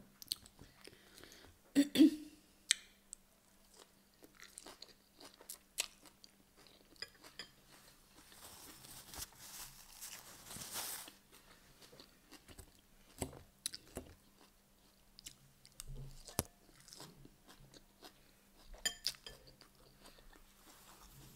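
Close-up chewing and crunching of a mouthful of Caesar salad, with a few sharp clicks, the loudest about two seconds in. About halfway through comes a soft rustle of a paper tissue wiped across the face.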